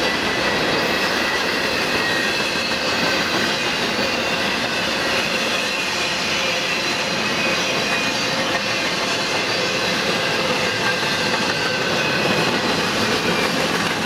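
Freight train of trailers on flatcars rolling past, a steady loud noise of steel wheels on rail with thin, high wheel-squeal tones running through it.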